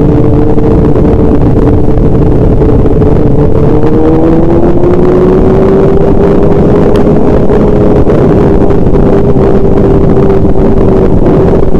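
A vehicle engine runs at steady speed under heavy rumble and wind noise. Its hum holds two close pitches that slide together into a single pitch about four seconds in.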